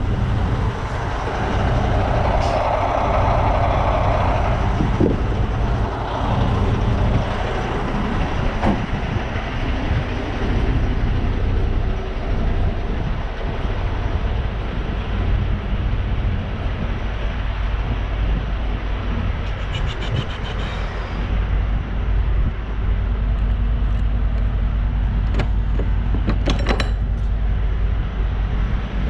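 Semi truck's diesel engine idling with a steady low rumble, with a few short knocks and clanks now and then.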